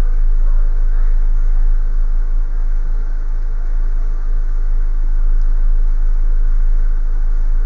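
Hand-held hair dryer running steadily: an even rush of blown air with a strong deep rumble that does not change.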